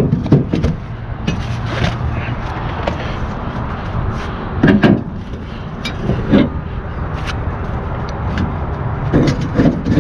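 Diesel truck engine idling steadily, with scattered clicks and knocks of ratchet straps being released on a flatbed load.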